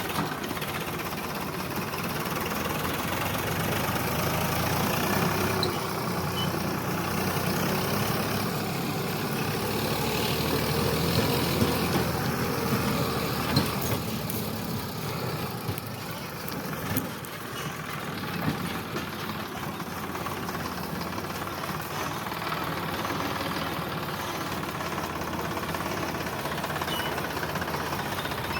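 Sonalika DI 745 tractor's diesel engine running steadily, with a few sharp knocks about halfway through.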